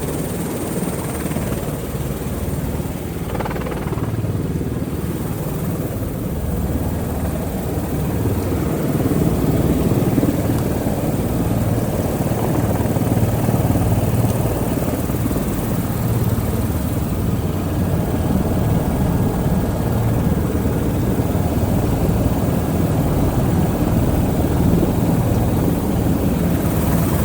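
Helicopter turbine engine and rotor running steadily, with a faint high whine above the low rotor noise. It grows somewhat louder about eight seconds in.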